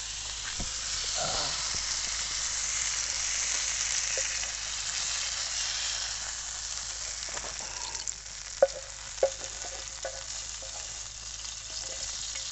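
Chicken pieces sizzling in oil on a hot tawa. The sizzle eases a little about two-thirds of the way through, where two sharp knocks, the loudest sounds, come about half a second apart.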